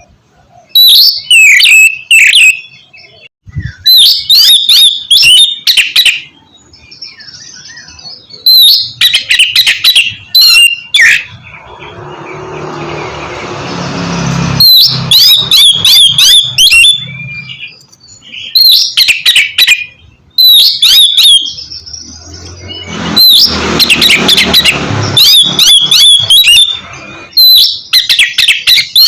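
Oriental magpie-robin (kacer) singing loud bursts of quick whistled and sweeping notes, the phrases broken by short pauses. A rushing noise swells up behind the song twice, about midway and again later.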